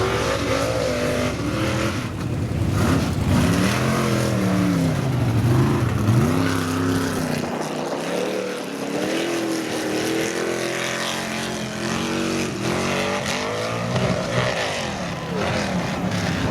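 Big-engine mud bog truck revving hard, its pitch climbing and dropping over and over as it is throttled up and backed off.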